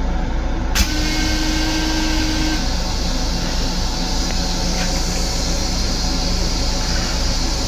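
Steady rumble and hum of a Long Island Rail Road M7 electric railcar, heard from inside its restroom. A sharp click comes just under a second in, after which a steady hiss joins.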